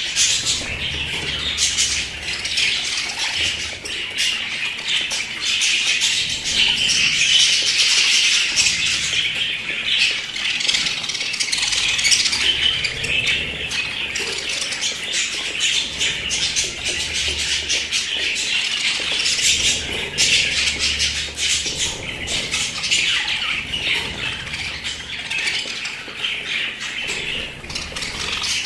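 A group of pet budgerigars chattering and chirping without pause, many high calls overlapping.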